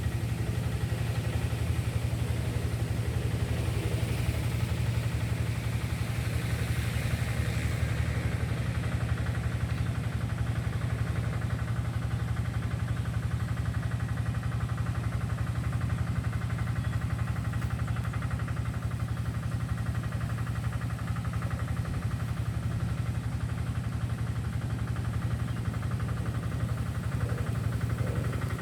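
An engine running steadily at idle, a low, even hum that doesn't change.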